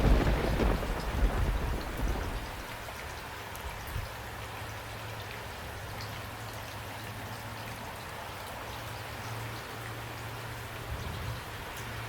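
Steady rain falling, with a roll of thunder at the start that fades out over about two seconds.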